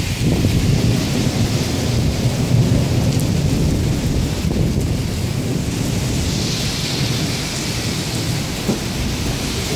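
Thunder rumbling continuously while rain falls in a steady hiss, the rain growing a little louder past the middle.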